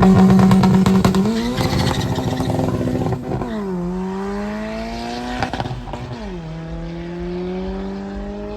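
Car engine held at high revs, then accelerating away with two upshifts about three and six seconds in, each a sudden drop in pitch followed by a steady climb, growing fainter as it pulls away.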